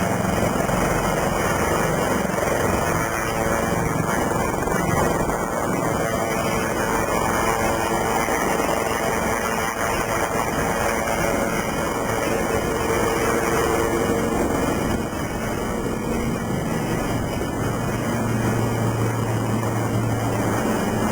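Lynx helicopter running steadily: continuous turbine and rotor noise, with a low hum rising briefly near the end.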